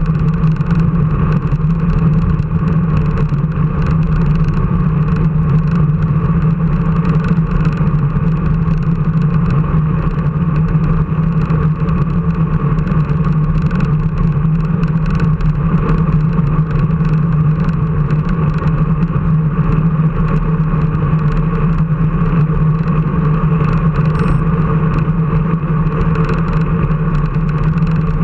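Steady engine drone at a constant speed, unchanging throughout, with a faint scatter of small ticks over it.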